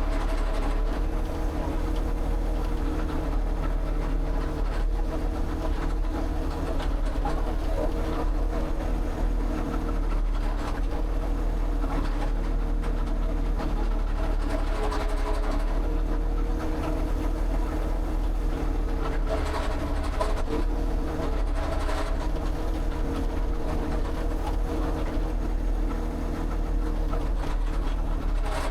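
A motor or engine running steadily, with an even drone and several held tones.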